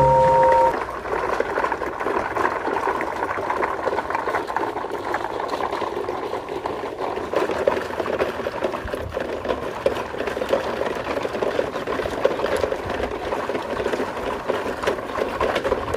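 Battery-powered toy train running along its plastic track, its motor and wheels making a steady, dense rattle of small clicks. A short steady tone sounds at the very start.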